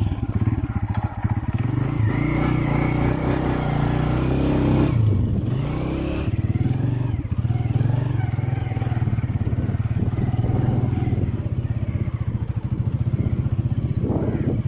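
A vehicle engine running steadily with a rapid, even chug. Its note briefly changes about five seconds in, then settles again.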